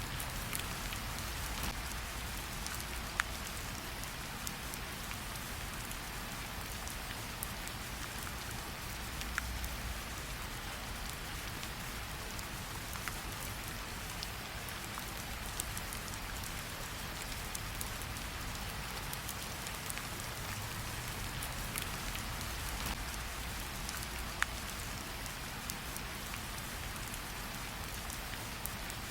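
Steady rain falling, with occasional sharp ticks and pops every few seconds.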